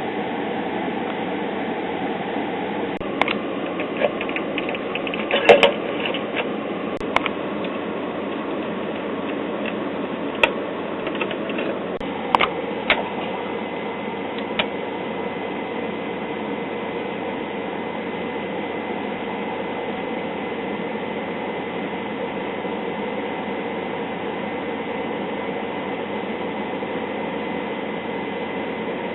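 Static hiss from the speaker of a 1966 Zenith AM tube clock radio with no station coming through, with a scatter of sharp crackles and clicks in the first half.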